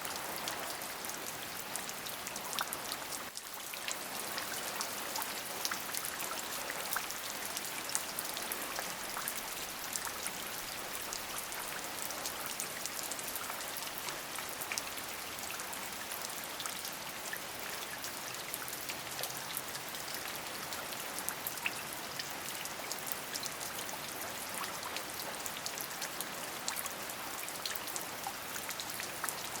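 Steady rain falling, a continuous hiss dotted with many small, distinct drop hits. The level dips briefly a little over three seconds in, then carries on unchanged.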